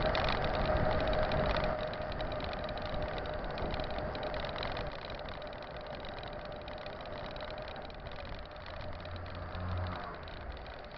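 Mountain bike rolling along a dirt trail: steady tyre and wind noise, a little quieter after about two seconds.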